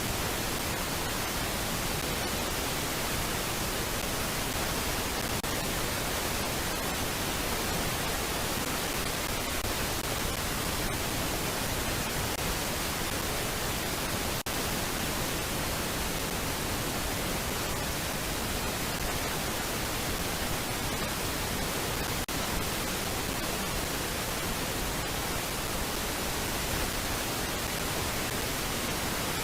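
Steady, even hiss like static, with no calls or other distinct sounds and a momentary dip about halfway through.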